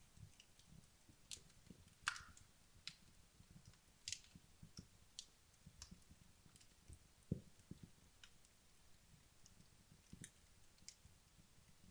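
Wood logs burning in a fireplace, crackling with sparse, irregular pops and clicks, the sharpest about two seconds in. A duller knock comes about seven seconds in.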